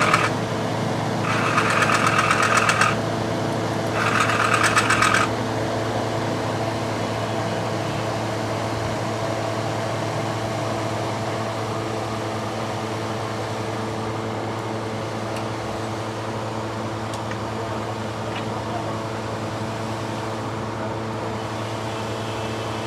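Toyota Corolla GLI engine idling steadily. In the first five seconds two short, higher buzzing bursts rise over it.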